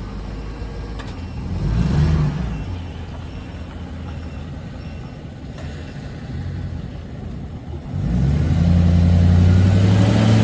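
2005 Ford F-350 Super Duty's 5.4-litre gas V8 running. It rises briefly about two seconds in, then runs louder at higher revs for the last two seconds or so.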